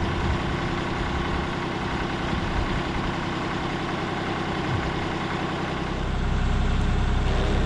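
Tractor engine running steadily, growing louder and deeper about six seconds in.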